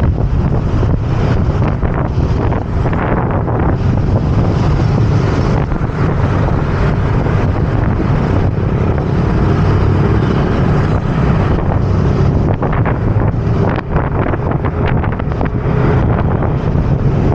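Heavy wind buffeting the microphone of a moving scooter, over steady engine and road noise, with no letup.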